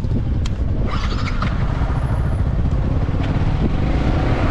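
Yamaha R15 V3's 155 cc single-cylinder engine running steadily as the motorcycle rides off.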